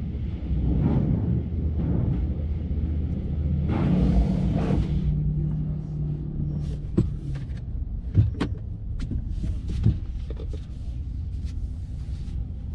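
Low, steady rumble of a car idling in a car-wash lane. About four seconds in there is a brief hissing rush, and a few sharp knocks follow in the second half.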